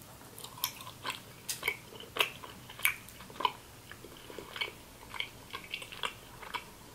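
A person biting into and chewing a mochi ice cream: short mouth clicks and smacks at irregular intervals, a few each second.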